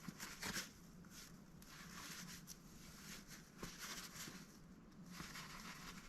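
Faint, irregular rustling and soft pattering from a mallard duck moving about, with a few small clicks, over a low steady hum.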